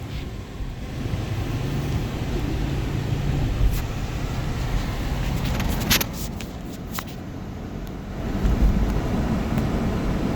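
Union Pacific freight train's diesel locomotives approaching: a steady low rumble that grows louder about eight seconds in, with a few brief clicks.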